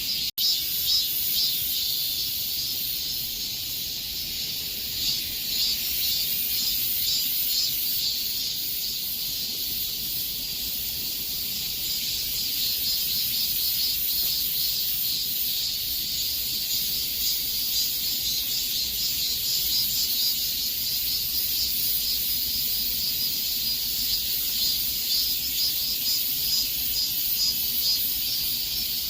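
Chorus of cicadas: a steady, shrill, pulsing drone in the summer heat, briefly cutting out just after the start.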